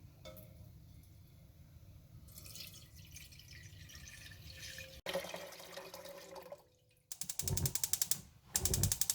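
Water being poured into a cooking pot, splashing as it fills. There is an abrupt cut about five seconds in, then two louder bursts of pouring near the end.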